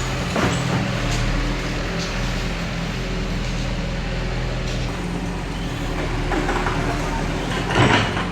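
Heavy diesel engine of earthmoving machinery running steadily, with a few short knocks and a louder burst of noise just before the end.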